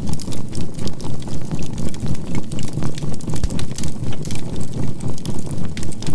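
Crackling charcoal fire, with many sharp pops, layered over a low synthesized humming tone that swells and fades evenly about three times a second. The hum is the track's binaural beat and 528 Hz healing tone.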